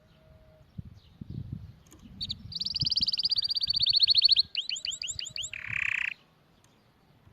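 Domestic canary singing one song phrase. It opens with a fast trill of rapidly repeated high notes, runs into a handful of slower falling sweeps, and ends in a short harsh buzz.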